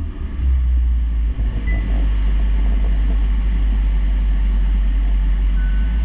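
2025 Hyundai Elantra's 1.6L four-cylinder engine running at a steady idle, a low, even drone.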